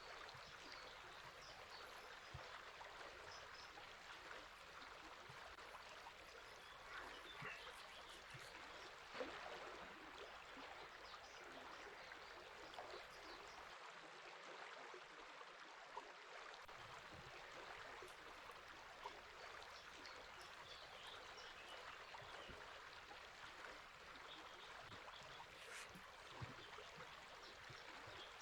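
Faint, steady rush of river water flowing, with scattered faint bird chirps through it.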